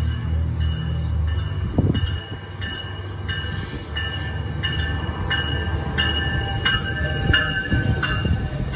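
Metrolink commuter train arriving at a station platform: the diesel locomotive rumbles low as it rolls in, and its bell rings steadily at about three strikes every two seconds.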